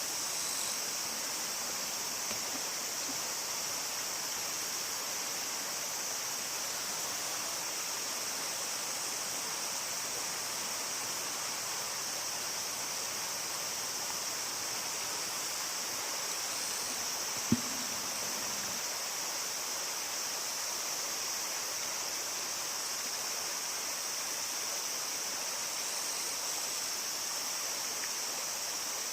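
Steady, even outdoor hiss, strongest high in pitch and unchanging throughout, with one sharp knock a little past the middle.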